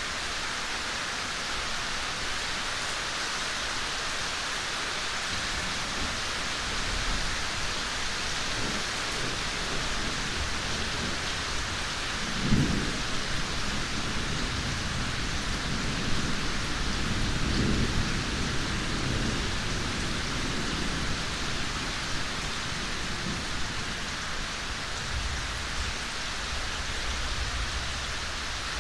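Steady rain falling in a forest, an even hiss. Low rumbles of thunder come through about twelve seconds in and again from about sixteen to nineteen seconds.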